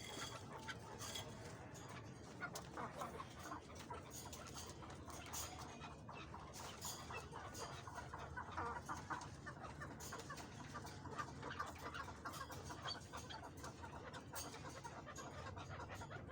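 Chukar partridges giving many short, soft clucking calls while feeding on greens.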